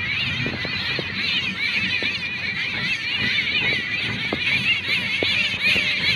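Chorus of many birds chirping at once, a dense, continuous twittering, with scattered light clicks.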